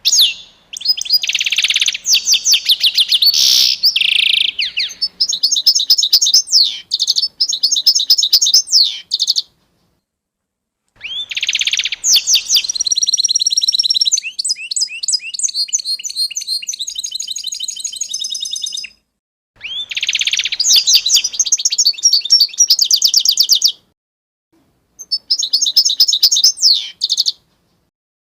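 A songbird singing long, high-pitched phrases of rapid trills and repeated notes, broken by four short pauses of about one to two seconds.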